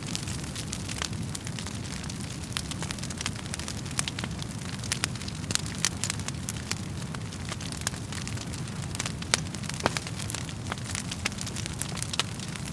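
Wood fire in a fireplace crackling and popping: irregular sharp snaps over a steady low rumble of the flames, with a few louder pops about four seconds in and again near ten seconds.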